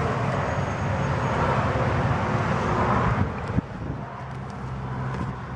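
Outdoor road traffic noise, with a vehicle passing that swells for about three seconds and then drops away abruptly. A single click comes just after, over a steady low hum.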